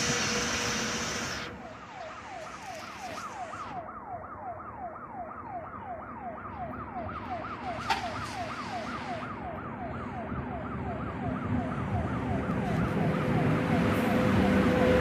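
Electronic railway level-crossing alarm sounding a rapid string of short falling tones, about three or four a second. At the start, the noise of a passing train drops away suddenly, and train noise builds again near the end.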